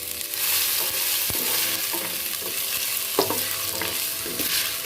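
Sliced ginger sizzling in hot oil in a pan, with a utensil clicking against the pan a few times as it is stirred.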